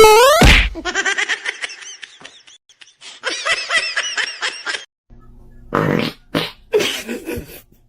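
A quick rising glide, then a long run of high-pitched laughter in rapid pulses and arching calls. About five seconds in it gives way to a low steady hum with several short noisy bursts.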